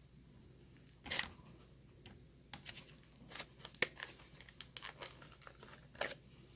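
Toy car packaging (a plastic blister on a cardboard card) being handled and torn open: a run of irregular crinkles and crackles, with a louder rip about a second in and another near the end.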